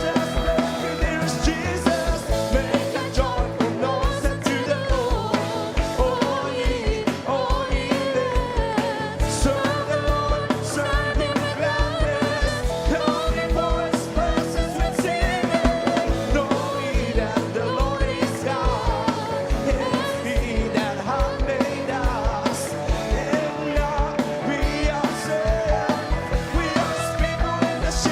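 A choir singing an upbeat gospel song with a band, over a steady drum beat.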